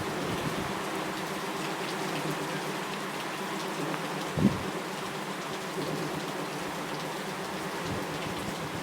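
Steady rain falling and pattering on surfaces, with one low thump about halfway through.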